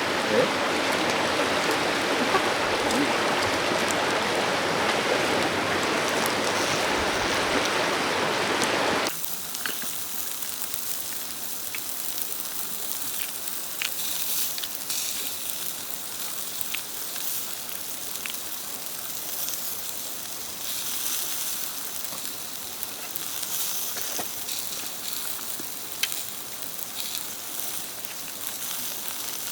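Running water from a clear river stream for about the first nine seconds. Then an abrupt switch to quieter sizzling and crackling of meat cooking over a charcoal fire, with scattered sharp pops.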